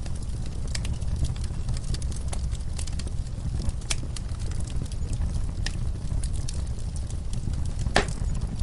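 Fireplace crackling: scattered sharp pops and snaps over a steady low rumble of the burning fire, with one louder snap near the end.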